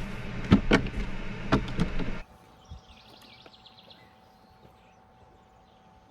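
Several sharp knocks over a low steady hum, cutting off abruptly about two seconds in. Then quiet outdoor ambience with a faint, high chirping trill from a bird or insect.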